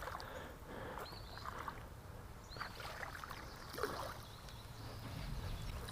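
Faint water sloshing and splashing in a shallow creek as a hooked smallmouth bass is brought in, with a few soft splashes about once a second.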